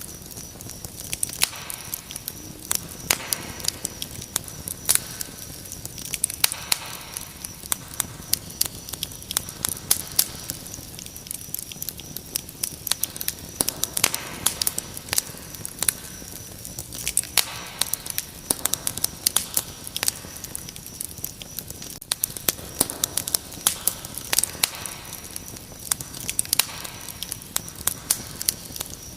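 Wood fire crackling, with frequent sharp pops and snaps, over a steady high-pitched cricket trill.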